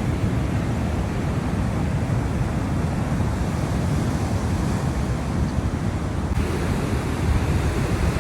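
Storm surf breaking along a flooded rocky shoreline, mixed with wind buffeting the microphone: a steady, low rush of noise with no distinct single wave crashes.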